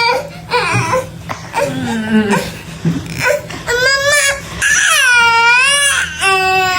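A child crying in high-pitched, wavering wails, with the longest cry from about four to six seconds in.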